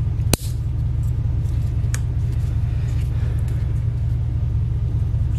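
Steady low rumble underneath small metal-and-plastic handling clicks, with one sharp click about a third of a second in as a retaining clip is put back onto an ABC hydraulic valve block, then a few lighter clicks.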